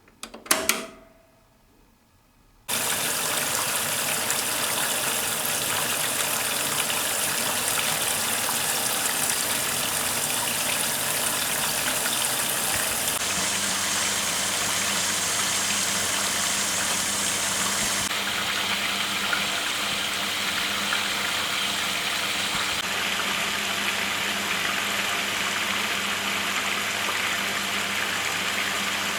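Hoover Keymatic A3112 washing machine filling with water at the start of its wash. A sharp clunk comes just under a second in. About three seconds in, water starts gushing into the drum and runs on steadily, and a low steady hum joins it about 13 s in.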